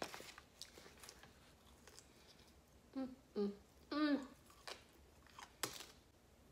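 Close mouth sounds of someone eating a ranch-dipped fried chicken tender: biting and chewing with soft wet clicks. There are a few short hummed "mm" voice sounds about three to four seconds in, and a sharper mouth click a little later.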